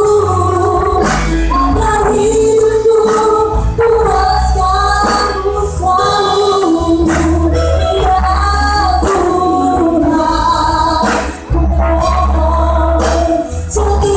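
Christian worship song: a singing voice over band accompaniment with a steady bass and regular percussion strokes.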